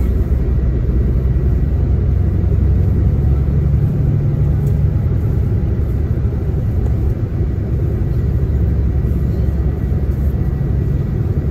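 Diesel coach bus running on the road, heard from inside the passenger cabin: a steady low engine and road rumble, the engine note swelling a few seconds in.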